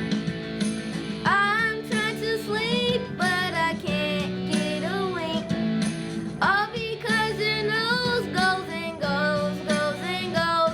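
Students singing a holiday song over an instrumental accompaniment, with long held notes that waver in pitch.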